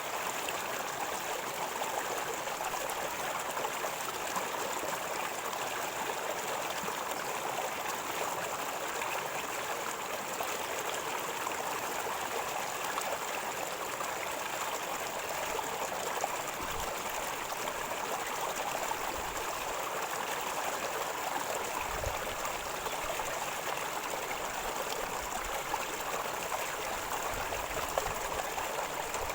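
River water gurgling and flowing steadily over stones, an even rushing with no breaks.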